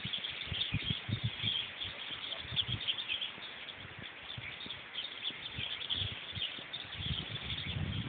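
Many small birds chirping in a tree-covered hillside, short high calls overlapping one another without pause. Under them runs an uneven low rumble on the phone's microphone, strongest about a second in and again near the end.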